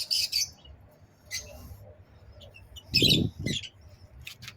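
Lovebirds chirping in short, high bursts, with a couple of short, louder knocks or scrapes about three seconds in.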